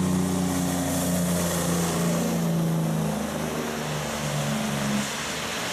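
A vehicle engine sound, a steady drone with a hiss over it, its pitch stepping down and back up a few times about three seconds in.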